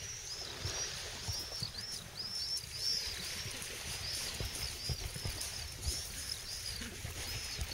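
Small birds chirping over and over in short, quick arched calls, over a low uneven rumble and a faint high hiss.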